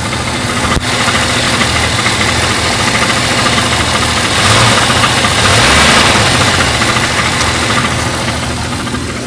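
Jeep Cherokee engine idling with a rapid 'taca taca taca' ticking that sounds like a diesel. The uploader traces the noise to the flexplate ring gear, where bolts strike the cover.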